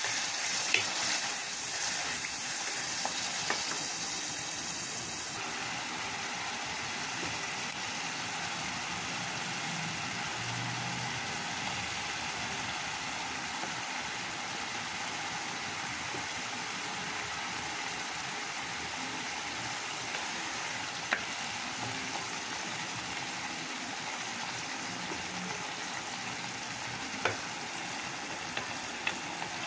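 Tomato masala sizzling as it fries in an aluminium pot while a wooden spatula stirs it, with a few light clicks of the spatula against the pot.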